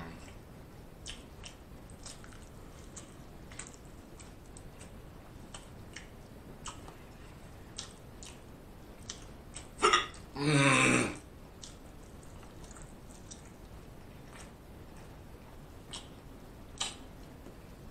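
Close-miked chewing of broccoli, with small mouth clicks and crunches scattered through. About ten seconds in there is one loud vocal sound lasting about a second.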